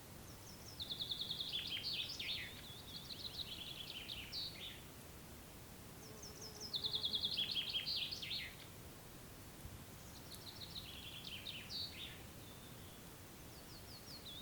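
A songbird singing four trilled phrases, each a quick run of high repeated notes dropping in pitch and ending in a short flourish, over a faint steady background hush.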